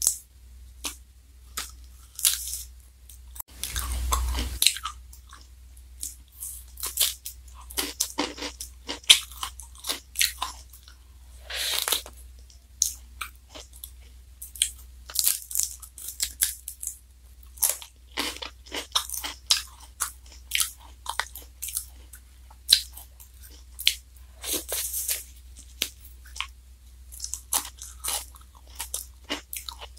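Close-up chewing and crunching of a black wafer ice cream cone with soft ice cream, many short irregular crunches, with a longer burst of noise about four seconds in.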